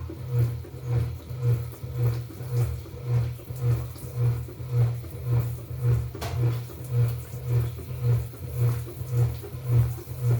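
Washing machine agitating its load in the wash cycle: a low, regular churning that repeats about twice a second, with water swishing.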